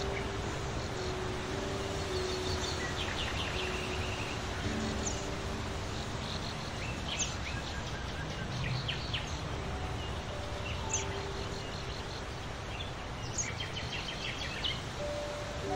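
Small birds chirping in short high bursts, several times, over a steady hiss of outdoor background noise.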